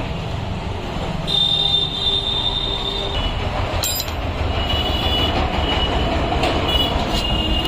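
Steady background vehicle rumble with a high-pitched squeal holding on through most of it, and a sharp click about four seconds in.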